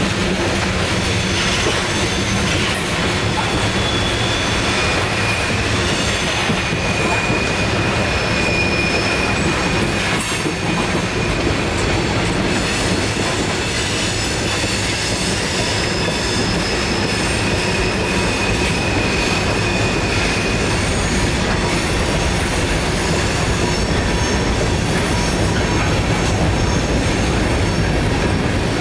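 Freight cars of a Norfolk Southern freight train rolling past on a curve: a steady rumble of steel wheels on rail, with high-pitched wheel squeal from the curve that comes and goes.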